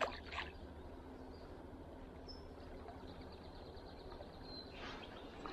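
Faint outdoor ambience with a few short, high bird chirps and a couple of light clicks near the start.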